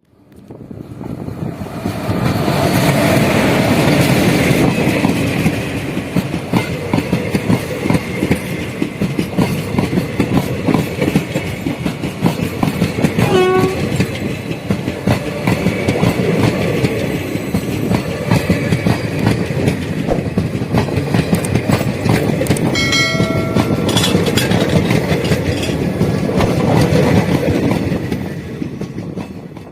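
Indian Railways train running along the track: a steady loud rumble of wheels on rail with a fast clickety-clack of wheels over rail joints. It rises over the first two seconds and fades at the end. Two brief pitched tones cut through, a lower one about halfway through and a higher one later on.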